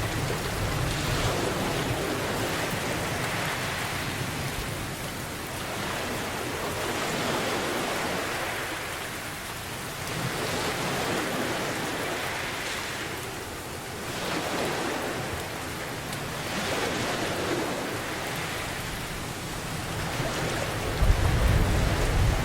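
Steady rain hiss mixed with ocean waves that swell and wash in every few seconds, with low thunder rumbling at the start and again near the end.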